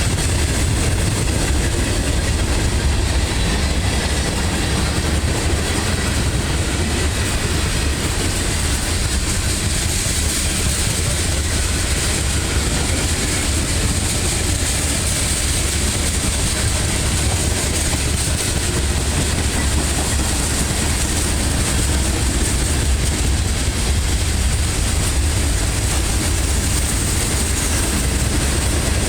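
The cars of a passing CSX freight train rolling by on the rails, a steady, unbroken noise of steel wheels on track.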